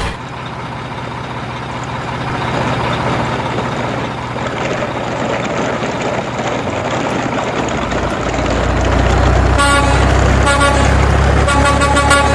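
Sound effect of a big truck engine running steadily, getting louder and deeper about eight seconds in, with a few short horn toots near the end.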